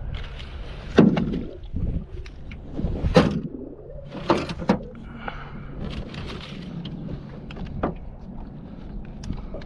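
Gear being handled in a small boat: a few sharp knocks and clunks against the hull, loudest about a second in and again about three seconds in, with wind rumbling on the microphone.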